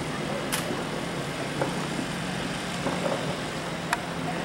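Fireworks going off far away: a steady rumble of many overlapping blasts, with a few sharper pops about half a second, a second and a half, and four seconds in.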